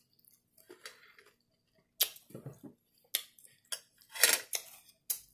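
Close-miked chewing of a mouthful of nachos: several crisp crunches of tortilla chips, with softer wet mouth sounds between them.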